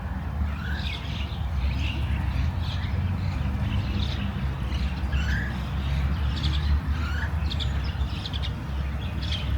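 Small birds chirping and calling, many short notes and quick rising whistles scattered throughout, over a steady low rumble.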